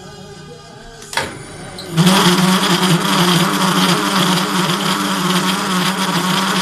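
Metal lathe cutting a large workpiece: a sharp knock about a second in, then from about two seconds a loud, steady cutting noise over a low hum, much louder than what comes before.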